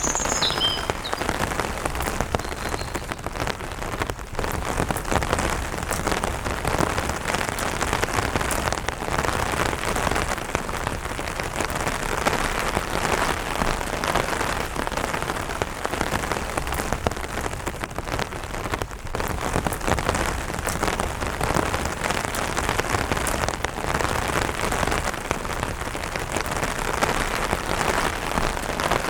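Steady light rain pattering on an umbrella canopy, a dense, even crackle of drops. A bird chirps a few times right at the start.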